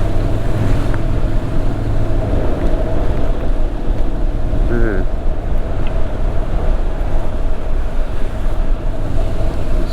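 Motorcycle riding at a steady speed: the engine runs evenly under a constant rush of wind noise.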